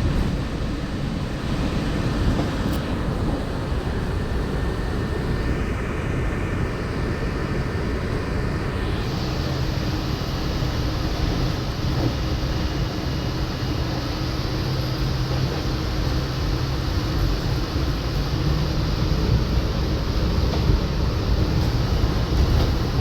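Walt Disney World monorail car running along its beam, heard from inside the cabin: a steady low rumble and hum from the drive and tyres, with a hiss that grows louder about nine seconds in.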